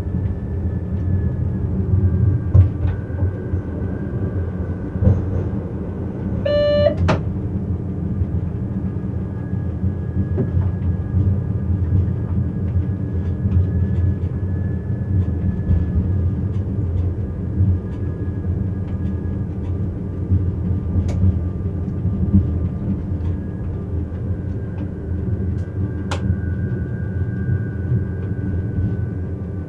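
Rhaetian Railway ABe 4/4 electric railcar running steadily on snow-covered track, heard from the driver's cab: a constant low rumble with a faint whine above it. A short tone sounds once about seven seconds in, and a couple of sharp clicks come later on.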